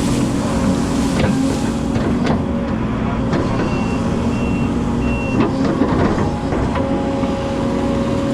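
Excavator engine running steadily under load, with several sharp knocks and three short high-pitched beeps, like a travel alarm, about three and a half seconds in.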